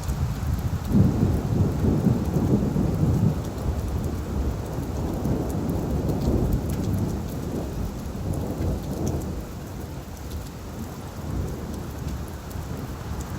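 Steady rain falling, with scattered drop ticks, under a low rumble of thunder that is loudest in the first few seconds and then slowly dies away.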